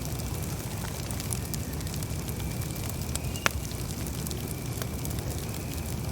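Campfire burning: a steady low rumble of flames with scattered crackles, and one sharp pop about three and a half seconds in.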